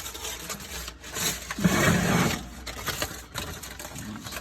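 Scraping and knocking as a pie is slid into an oven, louder in the middle.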